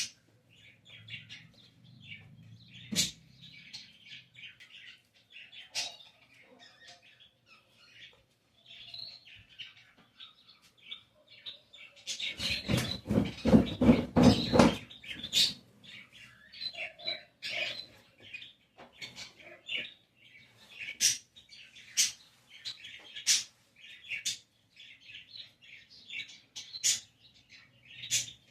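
Many small birds chirping and twittering, with some sharp high calls. About twelve seconds in, a burst of rapid knocking or clattering lasts about three seconds.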